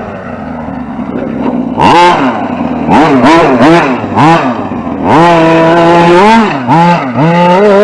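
Radio-controlled truck's motor whining up and down in pitch under repeated throttle bursts: a lower steady hum for the first couple of seconds, then quick short blips, one rev held for about a second past the middle, and more blips near the end.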